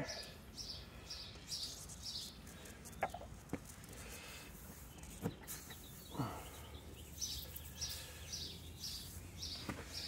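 A small bird chirping in a quick repeated series, at the start and again over the last few seconds, with four short, sharp clicks in between.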